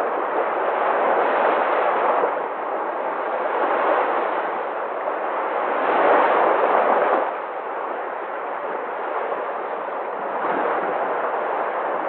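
Sea waves breaking and washing, rising and falling in slow surges, the strongest about six seconds in and dropping off sharply just after seven seconds.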